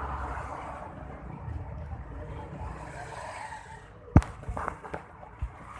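Road vehicle going by on a wet road, its tyre hiss swelling and then fading, followed about four seconds in by one sharp loud knock and a few softer knocks.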